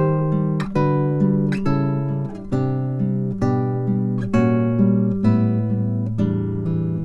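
Acoustic guitar music: plucked notes and chords in a steady flowing pattern, a new note struck about every half second to second.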